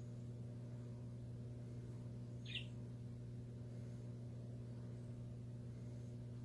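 A pet bird gives one short, high chirp about two and a half seconds in, over a steady low hum.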